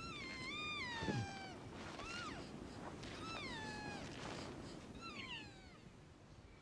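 Elk mewing: four high, whistle-like calls that each slide downward over about a second, the last one fainter.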